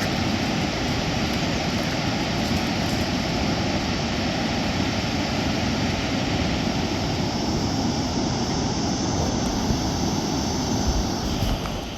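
Fast-flowing river water rushing steadily and loudly, an even wash of noise with no breaks, dropping away sharply near the end.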